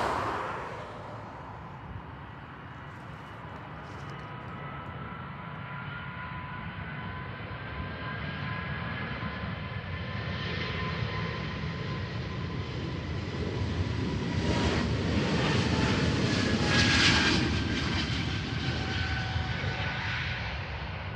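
Breeze Airways Airbus A220 departing, its jet engines running with a rumble and a whine that glides slowly in pitch. The sound builds steadily to its loudest about three-quarters of the way through, then eases off.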